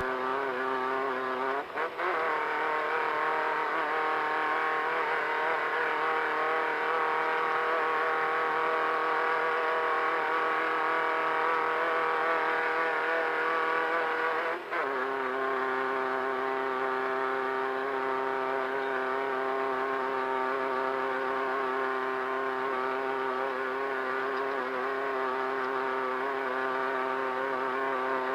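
Volkswagen Beetle desert race car's air-cooled flat-four engine running hard at steady speed, its note dipping briefly about two seconds in and again about halfway before carrying on.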